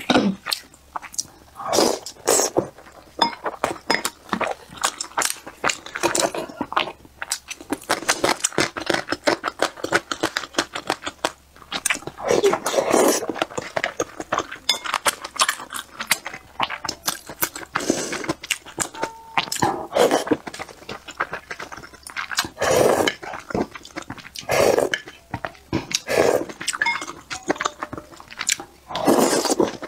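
Close-miked chewing and wet mouth sounds of eating boiled dumplings, in a run of irregular smacks and clicks, with occasional light taps of chopsticks against the ceramic bowl.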